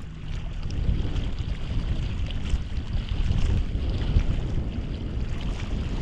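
Wind buffeting the microphone: a low, uneven rumble, with faint small ticks of water lapping against the kayak.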